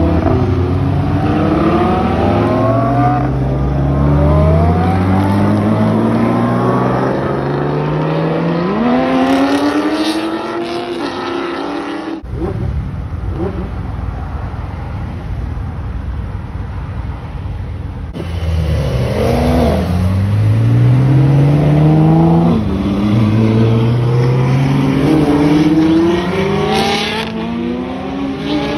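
Lamborghini Huracán's V10 revving hard as it accelerates away, climbing in pitch through several quick upshifts. A quieter, steady engine rumble follows. Then more high-performance car engines accelerate hard, again with rising revs and gear changes.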